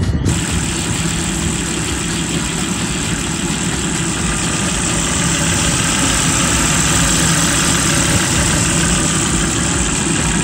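Volvo P2-chassis engine idling steadily, running on a newly replaced fuel pump.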